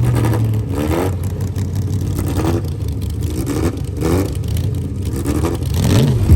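Car engine revving again and again, its pitch rising and falling about every second and a half, over a steady low hum.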